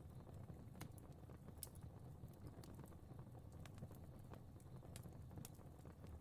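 Faint fire crackling: irregular small pops and snaps over a low, steady rumble.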